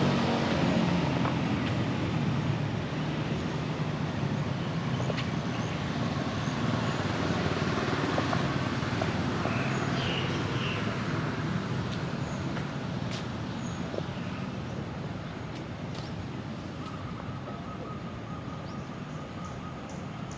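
A road vehicle passing and slowly fading away, its engine and tyre noise loudest at the start and dying down, with faint bird chirps over it.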